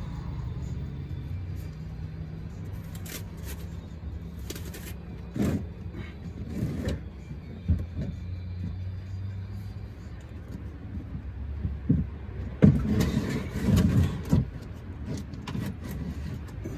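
Short bursts of metallic clinks and knocks from hand tools being worked under a truck, the loudest cluster about two thirds of the way in, over a steady low hum.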